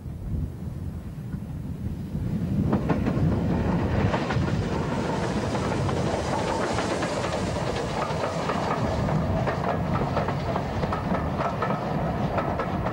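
Steam-hauled passenger train running past, its wheels clacking rhythmically over the rail joints. It grows louder over the first few seconds, then holds steady.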